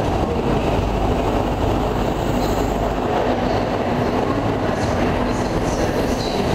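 A First Great Western High Speed Train (InterCity 125) running past close by along the platform: the diesel power car goes by, then its coaches roll past on the rails with a steady, loud rumble.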